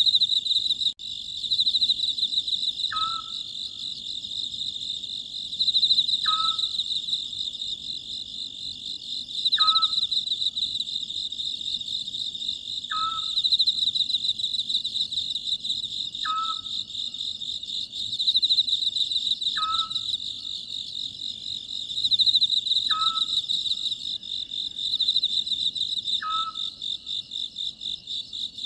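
Oriental scops owl calling its short note over and over, about every three seconds, against a steady pulsing chorus of crickets.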